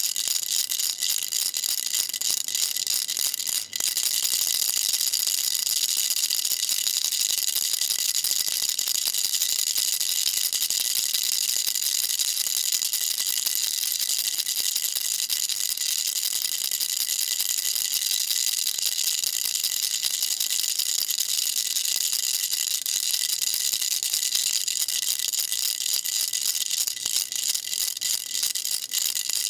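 Baby rattle shaken continuously: a fast, dense, high-pitched rattling with a momentary break about four seconds in.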